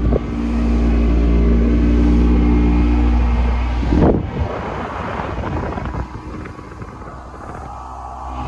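Small fishing boat's engine running hard to bring the boat up onto the plane, a loud steady engine tone with wind on the microphone. A sudden thump about four seconds in, after which the engine tone drops back under wind and water noise before building again near the end.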